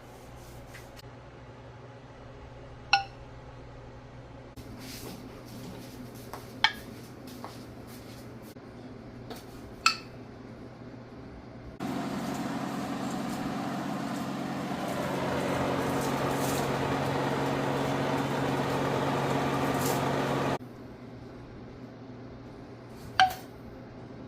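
Glass canning jars clinking against each other four times, each strike ringing briefly. About halfway through, a steady rushing noise with a low hum starts, runs for about eight seconds and cuts off suddenly.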